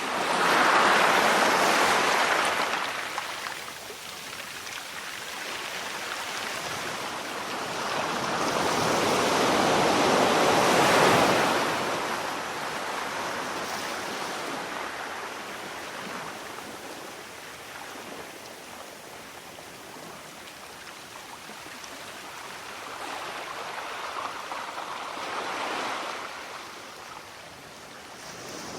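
Sea waves breaking on a shore: slow swells of rushing surf, two loud breakers early and a smaller one near the end, with a softer wash in between.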